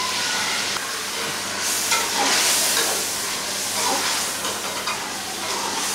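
Chicken and ginger-garlic paste frying in hot ghee in an aluminium karahi, a steady sizzle, while a metal ladle stirs through the pan. The sizzle swells louder for a second or two in the middle, with a few light scrapes of the ladle.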